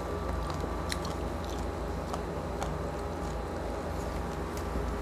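A person chewing crispy roast pork skin (lechon) close to a clip-on mic: soft mouth sounds with scattered small crackling crunches.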